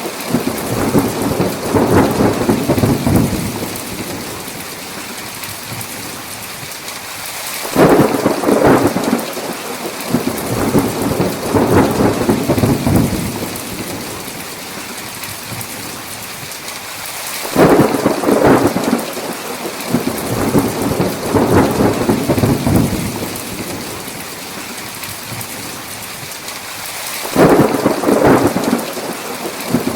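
Thunderstorm: a steady hiss of heavy rain, with thunder cracking in sudden loud rumbles about every ten seconds, each fading away over a few seconds.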